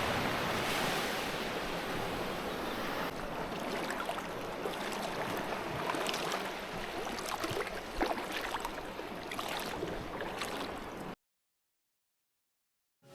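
Surf washing onto a beach, a steady noise with scattered faint clicks. It cuts off suddenly near the end into silence.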